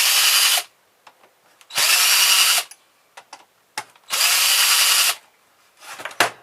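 A power drill-driver running in three short bursts, each under a second, as it works at the screws of a car stereo, with small metallic clicks in the gaps and near the end.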